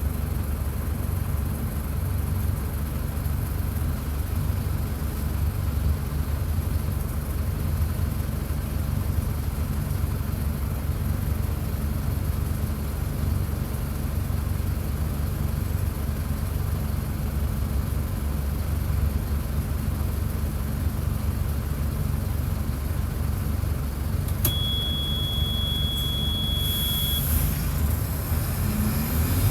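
Mercedes-Benz OF-1722 bus's diesel engine idling steadily, heard close to the engine. About 24 seconds in, a single high-pitched beep sounds for nearly three seconds.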